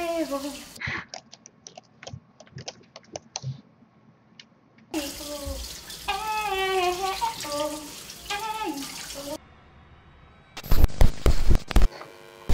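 A woman singing a tune to herself over a running kitchen tap while washing dishes. Between the sung phrases, dishes clink many times. Near the end comes a burst of loud thumps.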